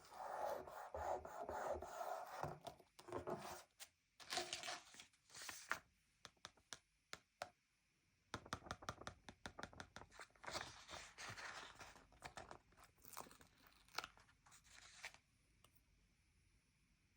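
Stickers being peeled off their backing sheet and pressed and rubbed onto a paper sticker-book page: crackly peeling and scratching broken by small sharp taps and clicks. It stops about two seconds before the end.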